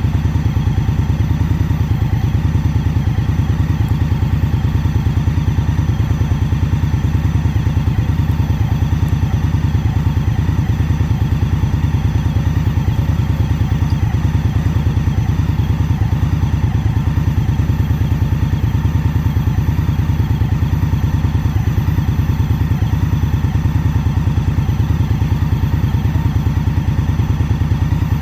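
2021 Indian Scout Bobber Twenty's 1133 cc V-twin engine running at a steady, unchanging speed with a deep, pulsing exhaust note.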